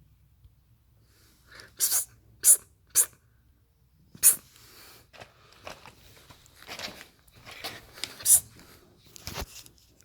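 A cat playing with a caught mouse: a string of short, sharp, hissy sounds, three close together about two seconds in and more, irregularly spaced, through the second half.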